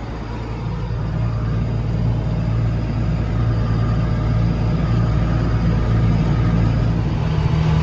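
Farm tractor engine running steadily while pulling a hay rake across the field, a continuous low drone that grows slightly louder over the stretch.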